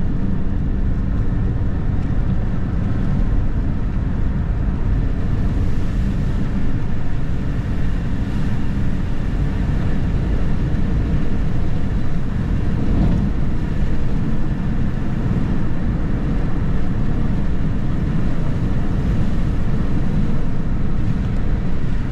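Steady road noise and engine drone heard from inside a moving car's cabin.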